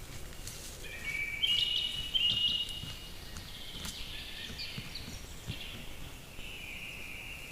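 A bird singing: short, clear, high whistled phrases, loudest between about one and three seconds in, with softer phrases after, over steady background noise.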